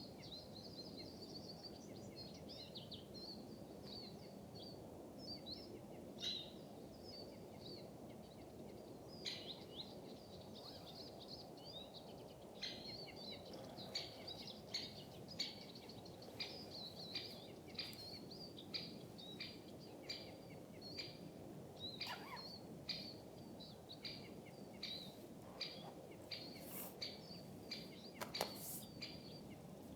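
Small birds chirping over and over in a winter forest, the short high calls coming thicker after the first ten seconds or so. Underneath is a steady low outdoor hiss, and a few sharp clicks or snaps come in the second half.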